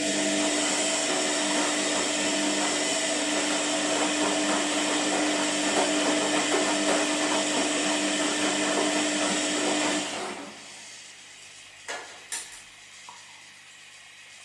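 Washing machine running with a steady motor whir and hum for about ten seconds, then stopping abruptly. Two short clicks follow a couple of seconds later.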